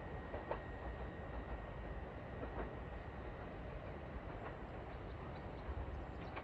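Echigo Tokimeki Railway train running on the rails: a steady low rumble with a few light clicks from the wheels and a faint steady high whine.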